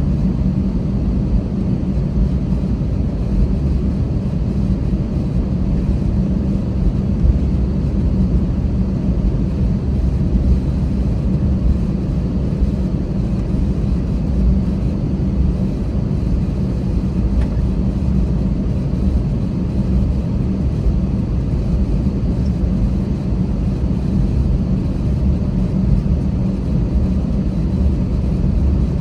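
Steady low rumble inside an Airbus A320 passenger cabin: jet engine and airframe noise, even and unchanging throughout.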